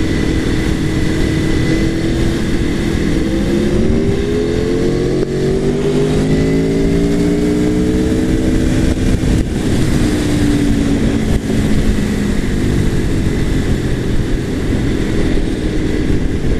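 Aprilia Tuono V4 Factory's V4 engine pulling hard, its pitch climbing for several seconds and then easing back down, under a steady rush of wind noise while riding.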